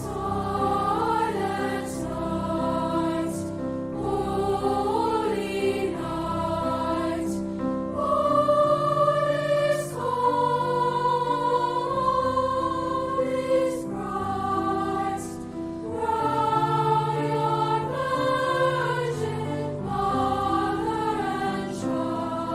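A choir singing a Christmas piece in several parts, the voices holding long notes together.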